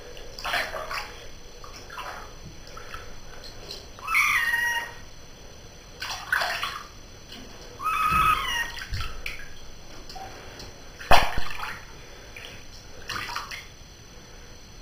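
Bath water splashing and sloshing in a tub as a cat moves about in it, with a couple of short cat meows at about four and eight seconds in. A sharp, sudden noise about eleven seconds in is the loudest moment.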